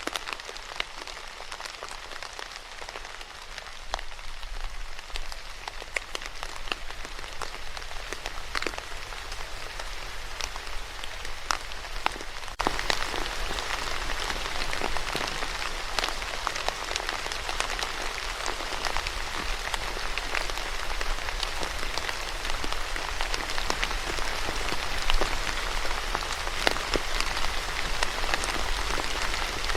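Steady rain falling on a surface, with many distinct drop hits through it. About twelve seconds in, it steps up abruptly to a louder, heavier downpour.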